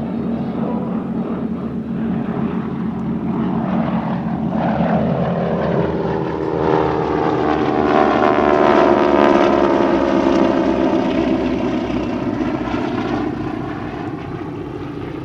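North American T-6 Texan trainers with Pratt & Whitney R-1340 radial engines flying past, swelling to a loud rasping drone that then drops in pitch and fades as they go by. The rasp comes from the propeller tips going supersonic.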